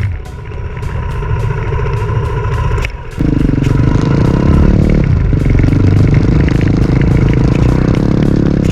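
Dirt bike engine running under throttle, with background music over it. The sound dips briefly and comes back louder and steadier about three seconds in.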